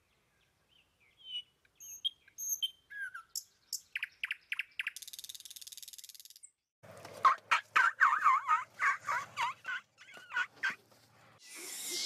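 Wild birds calling: scattered high chirps and short notes, then a loud run of rapid, repeated calls from about seven to eleven seconds in. A brief rush of noise comes right at the end.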